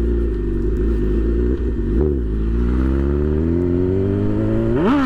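Honda CB1000 motorcycle's inline-four engine accelerating under throttle. A quick blip about two seconds in is followed by revs climbing steadily, then a sharp rise and drop near the end, like a gear change.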